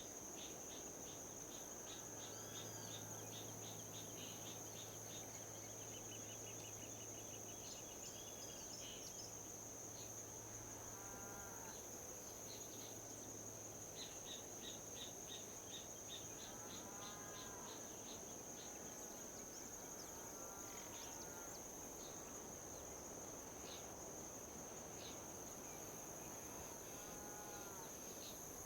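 Insects trilling outdoors: a steady high continuous tone with trains of rapid chirping pulses that come and go. A lower, short arched call repeats in small groups several times, over a soft, even rushing background of wind.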